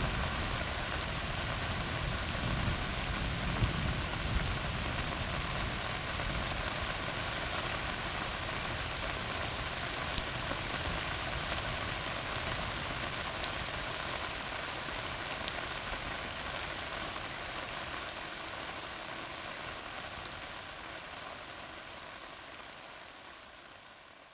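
Steady rain falling on a tar road, with scattered sharp drop ticks over the even patter and a low rumble in the first few seconds. It fades out near the end.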